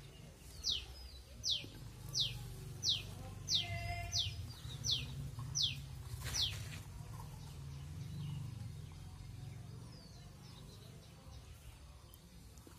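A bird calling a run of about nine quick, high notes, each sweeping downward, evenly spaced at a little under one a second. The calls stop about six and a half seconds in. A low, steady rumble runs underneath.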